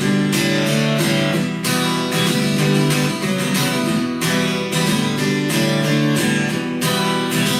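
Acoustic guitar strummed in a steady rhythm, an instrumental passage of a country song with no singing.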